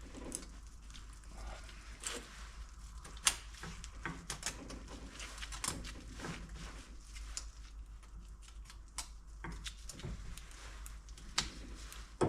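Light, scattered metal clicks, taps and small scrapes from a piston ring and a small file being handled while the ring's end edges are deburred, with a sharper click about three seconds in and another near the end.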